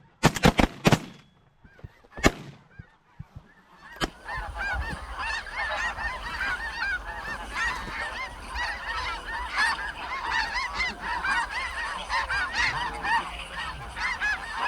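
A quick volley of shotgun shots, about three in the first second and one more near two seconds in. From about four seconds in, a large flock of snow geese calls continuously, a dense overlapping chorus of short honks.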